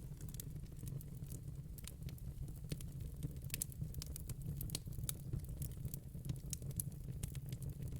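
Wood fire in a fire pit crackling, with sharp irregular pops and snaps over a low steady rumble.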